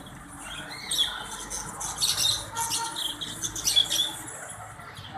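Small birds giving short, high chirps and squawks in quick clusters.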